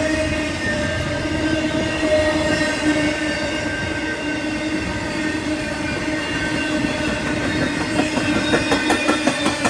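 A passing train with a steady whine of several held tones. In the last couple of seconds, rapid regular clicks come in as the wheels run over the rail joints.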